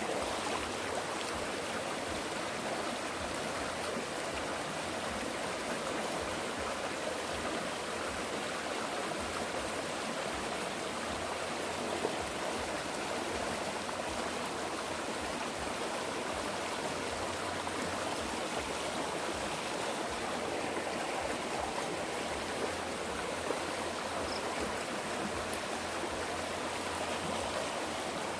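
Running water flowing steadily, a constant even rush like a stream, with a couple of faint ticks.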